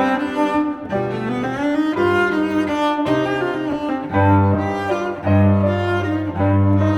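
Background music played on bowed strings, a cello-like melody over deep sustained bass notes that come in about four seconds in.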